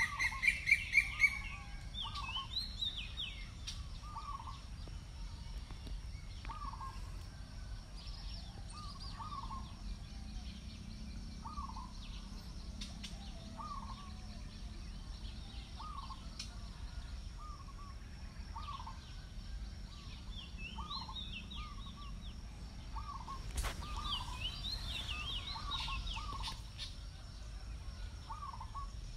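Birds calling: a loud rising call at the very start, then a short call repeated about once a second, with bursts of higher chirping now and then.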